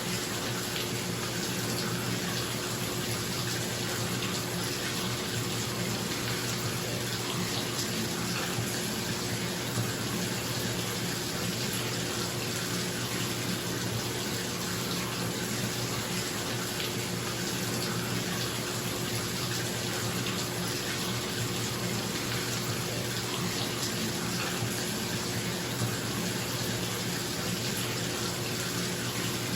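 Tap water pouring steadily into a bathtub, an even splashing hiss, with a bathroom exhaust fan humming steadily underneath.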